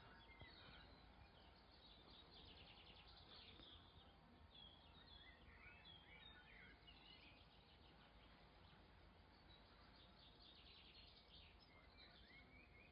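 Near silence with faint birdsong: scattered chirps and a couple of short rapid trills, one a few seconds in and another near the end.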